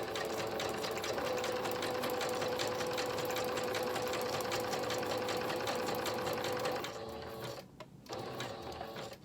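Sewing machine stitching through paper at a fast, even pace. It stops about seven and a half seconds in, runs a few more stitches, and stops again.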